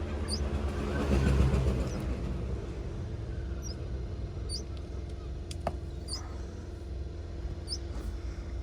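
Road vehicle engine running with a steady low rumble, swelling louder about a second in as a vehicle passes, with short high bird chirps every second or two.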